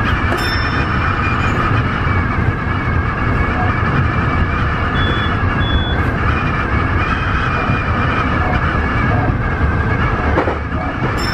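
Tobu 50090-series electric train running, heard from inside: a steady rumble and rail noise with no letup. Two short high tones sound about halfway through.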